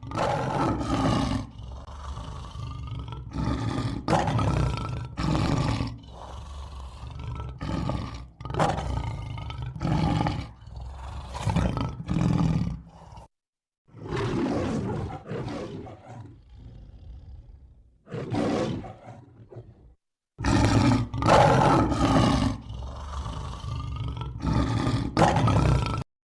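Large wild animal roaring, a run of repeated loud roars in three stretches broken by two short cuts to silence, about halfway through and again about two-thirds through.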